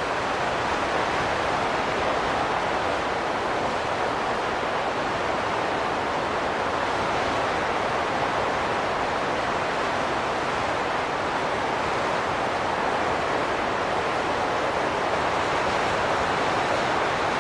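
Howling wind as a steady rushing noise, swelling and easing slowly.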